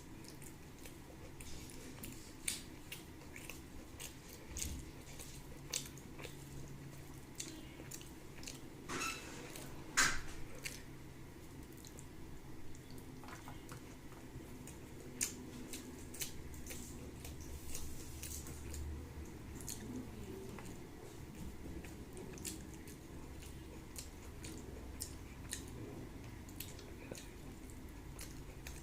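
Close-miked eating of rice with curry: wet chewing, squishing and lip-smacking, with many short sharp mouth clicks and a louder cluster of them about ten seconds in.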